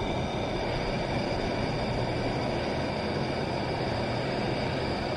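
Handheld gas torch flame blowing steadily as it heats a seized sway-bar bushing bracket bolt to free it without snapping it.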